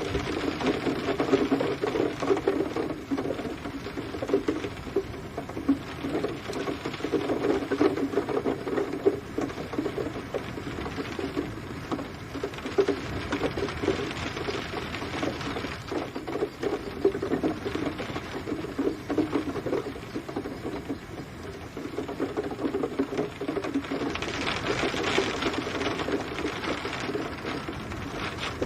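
Rain pattering on a surface, a dense rapid tapping of drops that swells and eases every few seconds.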